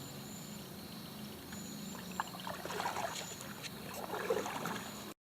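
Paddle strokes splashing and dripping in river water, starting about two seconds in, over a steady low hum and repeated high chirps. The sound cuts off suddenly near the end.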